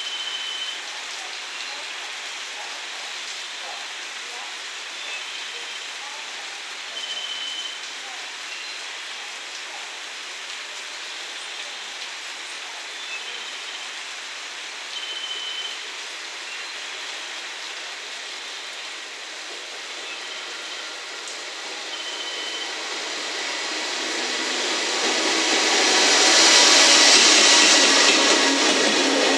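Steady rain hiss, with a short high beep repeating about every seven seconds. From about 23 s a long container freight train hauled by an EF210 electric locomotive comes in and passes close by. Its wheel and rail noise builds to the loudest near the end.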